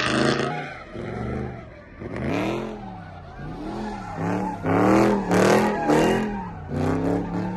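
Car engine revved repeatedly, its pitch climbing and dropping again several times in quick succession.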